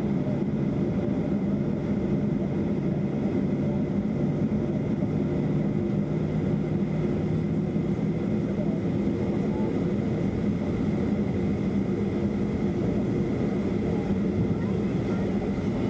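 Boeing 737-300's CFM56 engines at idle during taxi, heard inside the passenger cabin as a steady hum. Several low, even tones sit under it, with a faint steady high whine above.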